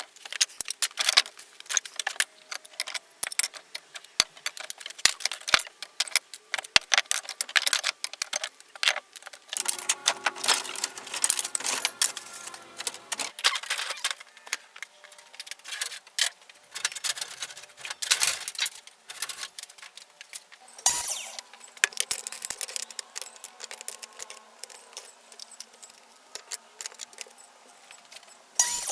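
Small hard pieces, such as scrap wood strips, clicking and clattering against each other and a work surface as they are handled, in quick irregular taps. A low hum joins in for a few seconds about a third of the way through.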